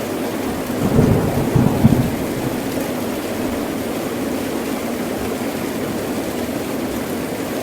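Heavy rain falling steadily, with a short low rumble of thunder about a second in that fades after about a second.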